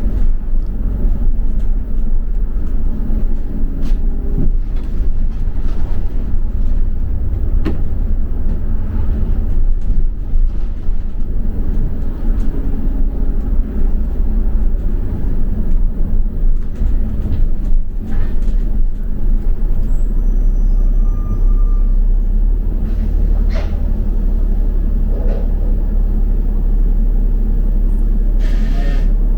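Double-decker bus heard from inside the passenger deck: a loud, steady low engine and road rumble with scattered rattles and knocks. The drone evens out in the second half, and a short hiss comes near the end.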